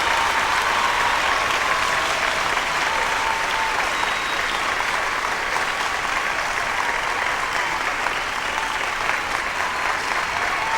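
Large crowd applauding, a dense, steady clapping that holds at an even level throughout, with a few faint held tones sounding over it.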